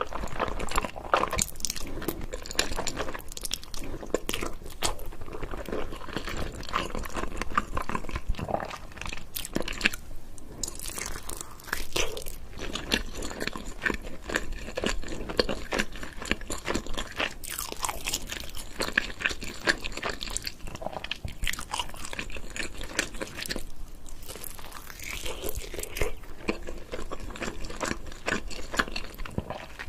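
Close-up eating sounds: a person chewing and biting into noodles and chicken, with crunching, as a near-continuous stream of small wet clicks and crackles broken by a couple of brief pauses.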